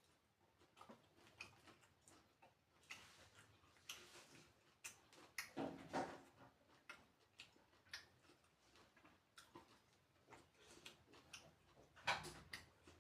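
Eating sounds: faint, irregular clicks and smacks of a person chewing food, with louder ones about six seconds in and near the end.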